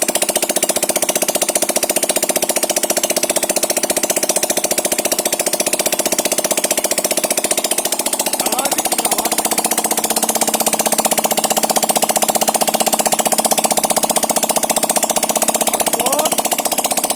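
Freshly rebuilt 139QMB 80cc single-cylinder four-stroke scooter engine running at a steady idle with a fast, even clatter, its pitch lifting slightly twice.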